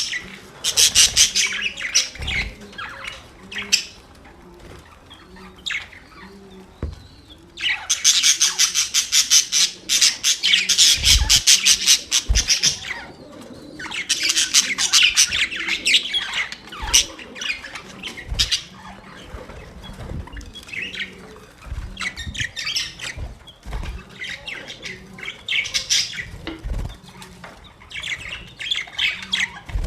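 Budgerigars chattering and warbling in fast, scratchy chirps, coming in loud bursts of a few seconds with quieter chirping between, and a few short low thumps.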